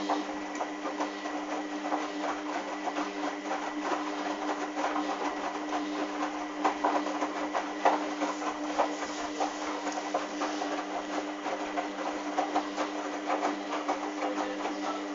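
Hoover washing machine running mid-cycle: a steady electric motor hum under a dense crackle of water and wet towels. It starts abruptly.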